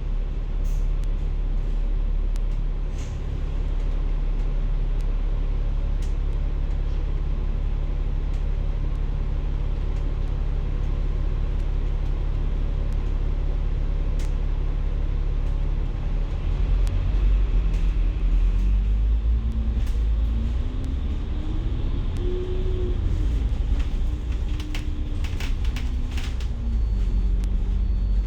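A bus engine running, heard from inside the bus: a steady low rumble and drone. About two-thirds of the way through, the engine note rises as the bus speeds up, then falls back. A few brief clicks and rattles come near the end.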